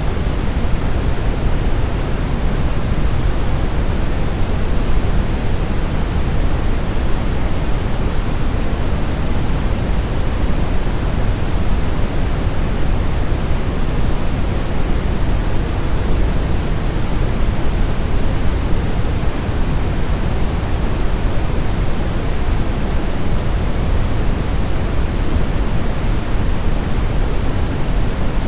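Steady brown noise: an even, deep rushing hiss with most of its energy in the low end, unchanging throughout.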